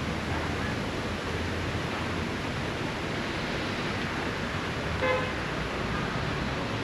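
Steady seafront ambience, an even rushing noise, with a single short pitched honk about five seconds in.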